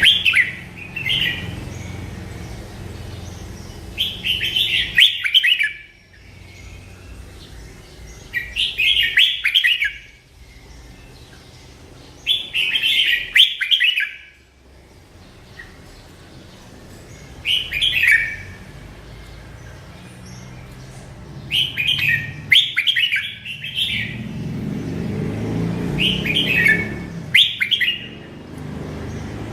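A merbah lekir bulbul singing short, quick warbled phrases every few seconds, about ten in all, some in close pairs. A steady low background hum runs beneath and grows louder near the end.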